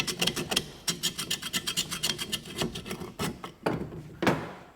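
Quick back-and-forth hand scraping on rusted metal, cleaning rust from the water pump's parts, about eight strokes a second, with a short pause a little under a second in and two harder strokes near the end.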